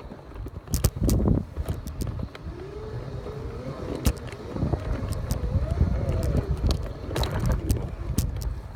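Segway's electric motor whining as it rides over rough dirt, its pitch rising and falling with speed, over a low rumble and scattered knocks and rattles from the bumpy ground.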